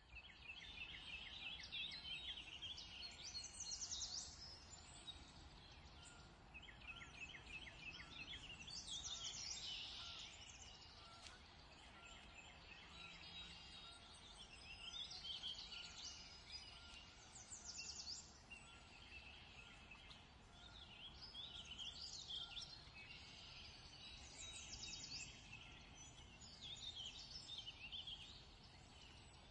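Faint birdsong: small birds singing in bursts of rapid chirps and trills every few seconds, over a steady low background rumble.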